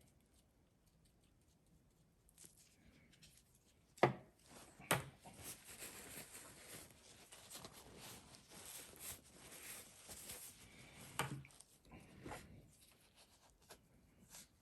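Starter motor parts being handled during a rebuild: a sharp click about four seconds in and another a second later, then several seconds of rubbing and scraping, with another knock near eleven seconds and a few lighter clicks after it.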